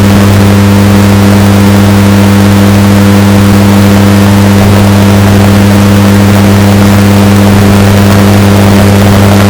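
Washing machine running with a steady, unchanging low hum, heavily bass-boosted and distorted.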